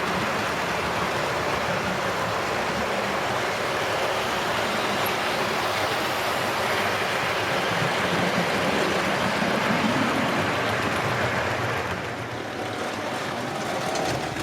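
Model trains running on the layout track: a continuous rumble and rattle of wheels on rail and the whirr of locomotive motors, dipping a little about twelve seconds in.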